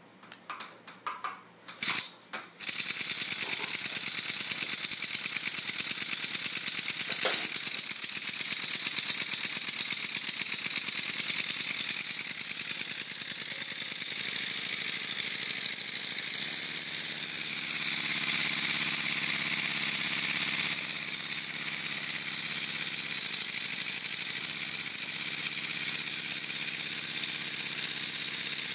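Lego pneumatic V4 engine, four small pneumatic cylinders and two valves, running on compressed air: a fast, continuous rattling clatter with a high hiss. A few separate clicks come first, then it starts running about two and a half seconds in, and it gets louder about halfway through.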